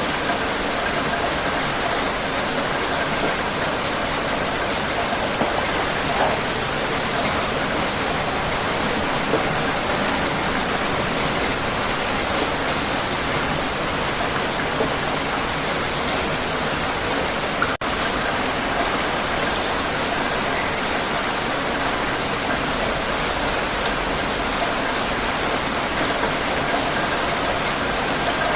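Heavy rain falling steadily, a dense, even hiss of drops on surfaces with faint scattered patters. There is a brief dropout about two-thirds of the way through.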